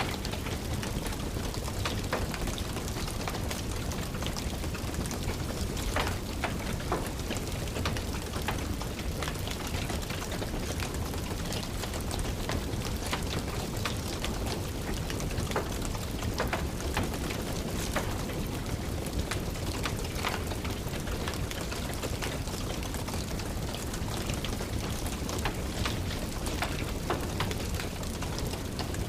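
Steady rain with the sharp, irregular crackles and pops of a wood fire burning in a fireplace.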